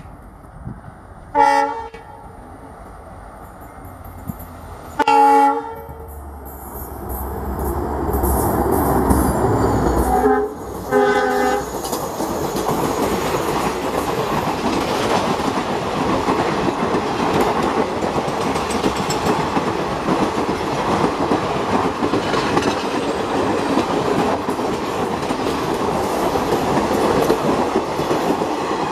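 Indian Railways WDP4D diesel-electric locomotive sounding its horn in four blasts: one a second or so in, a longer one about five seconds in, and two short ones close together around ten seconds in. Its deep engine rumble builds as it nears. Then passenger coaches roll past with a steady wheel rumble and clickety-clack.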